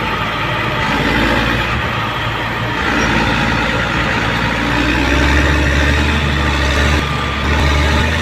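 Heavy diesel engine of earth-moving machinery running steadily, its low drone growing heavier about halfway through as the engine is worked.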